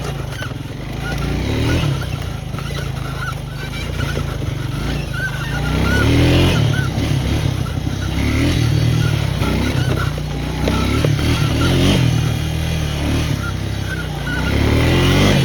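Four-wheeler (ATV) engine being ridden along a dirt trail, revving up and easing off several times.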